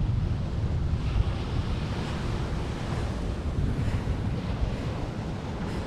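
Surf washing onto the beach, with wind buffeting the microphone in a steady low rumble.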